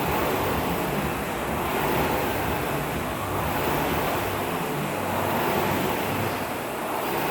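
Air-resistance rowing machine's flywheel whooshing, swelling and easing with each stroke about every second and a half to two seconds.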